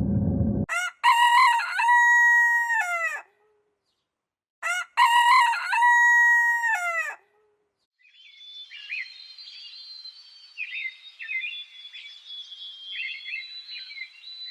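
A rooster crowing twice, each crow about two and a half seconds long, then fainter small birds chirping and warbling. A low noise cuts off just under a second in.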